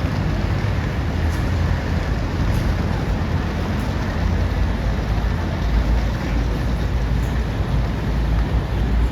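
Thai State Railway passenger train running along the track, a steady rumble heard from inside a non-air-conditioned carriage.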